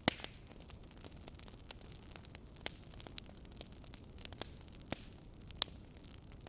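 Wood fire in a fireplace crackling: irregular sharp pops and snaps over a low steady rumble, with a louder pop just after the start.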